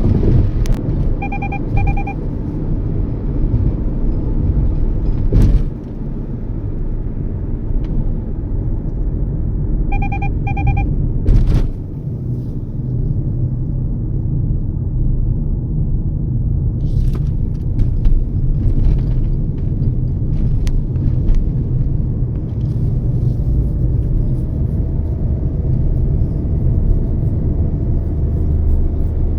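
Steady low road and engine rumble inside a Toyota Yaris's cabin on the move. A short double beep sounds about a second in and again about ten seconds in, and a few sharp knocks cut through the rumble.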